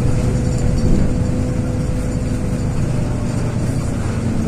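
LiAZ 6213.22 articulated city bus under way between stops, heard from inside the cabin: its diesel engine running steadily with a low hum and a faint steady tone, over road and tyre noise.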